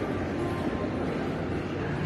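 Steady ambient noise inside a shopping mall, a low hum and hiss with no clear voices.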